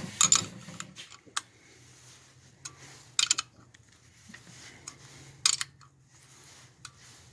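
A hand file scraping along the steel blade of a shovel that is being sharpened, stopping about a second in. It is followed by a few sharp metal clicks and clinks, a second or two apart, as the tool and blade are handled.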